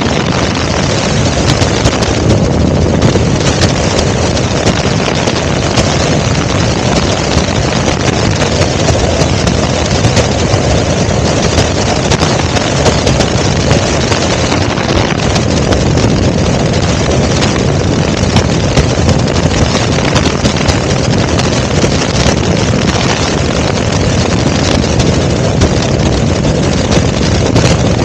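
Helicopter in flight: a loud, steady rush of engine and rotor noise that stays even throughout.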